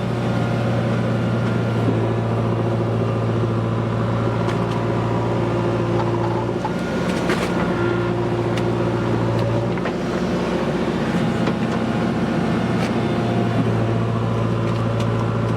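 Powertrac 445 tractor engine running steadily with a low hum, its note weakening briefly twice.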